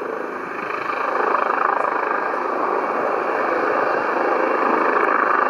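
Airbus Helicopters EC135P3 twin-engine helicopter running: a steady rush of rotor and turbine noise that grows a little louder about a second in.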